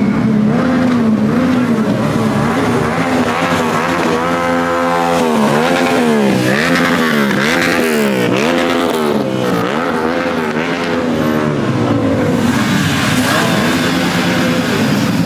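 A car engine revved over and over in quick blips, the pitch rising and falling about once a second for several seconds, with a steadier engine drone before and after.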